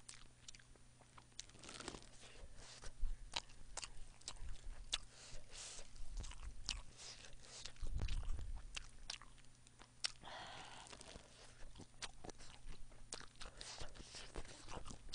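Close-miked chewing and crunching of food, a rice ball and boneless spicy chicken feet, with many small sharp crunches and clicks.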